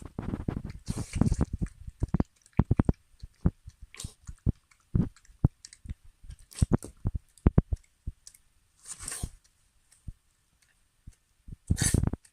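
Maltese dog eating greedily: quick runs of crunching and chewing bites, densest in the first few seconds, then scattered, with a couple of short scratchy noises later on.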